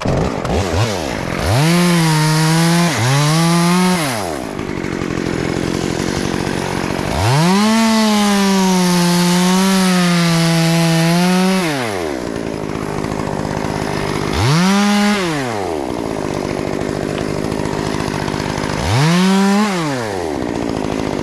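Stihl chainsaw revved to full throttle in five bursts: two short ones near the start, one long hold of about four seconds in the middle with a slight sag in pitch as it bites into wood, and two short blips later. Between bursts it drops back to a steady lower running speed.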